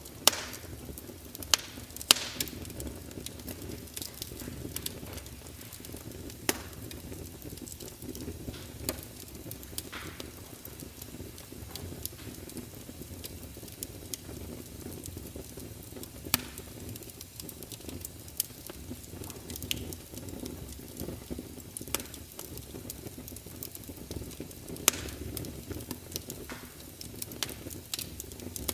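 Wood fire burning: a steady low rumble and hiss of the flames with sharp crackles and pops at irregular intervals, a few seconds apart.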